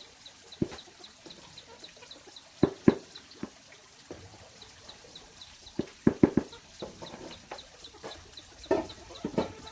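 Chickens clucking in short, sharp, irregular calls. A faint, even, high ticking runs underneath, about three times a second.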